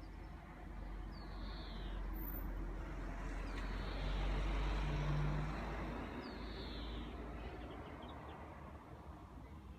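A vehicle passing by: road noise swells to a peak midway, with a low engine hum, and then fades away. A bird gives a short high call that falls in pitch, twice, once early on and again after the vehicle has passed its loudest point.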